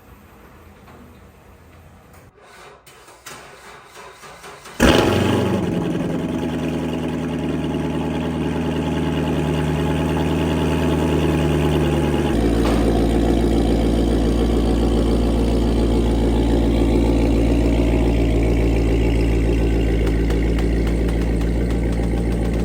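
Supercharged 6.2-litre V8 of a Corvette C7 Z06, breathing through a Corsa Extreme axle-back with an X-pipe and no valves, being started: it fires with a sudden loud burst about five seconds in and runs at a fast cold-start idle, then settles to a lower, steady idle about twelve seconds in.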